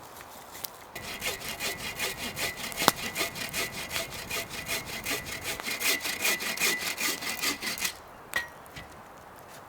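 Hand saw cutting through firewood with quick back-and-forth strokes, about three or four a second, starting about a second in and stopping near the end, with one sharp knock about three seconds in.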